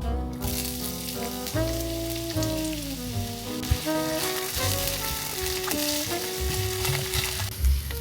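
Food sizzling as it fries in a hot pan: a steady hiss that starts about half a second in and eases off near the end. Jazz background music plays under it.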